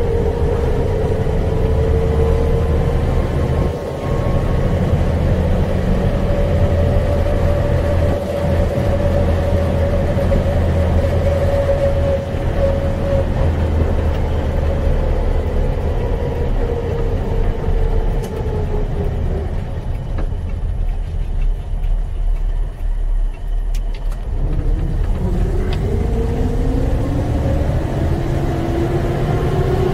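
1975 Toyota Land Cruiser FJ40's inline-six engine running under way, heard from inside the cabin, with a tone that rises and falls with speed. About two-thirds through it eases off and quietens, then picks up again, rising in pitch as it accelerates near the end.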